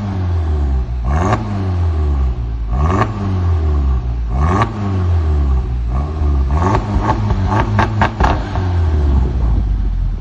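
Car engine revved repeatedly through a valved (controllable) aftermarket exhaust: sharp throttle blips that drop back to a low idle each time, with a quick run of four short blips later on.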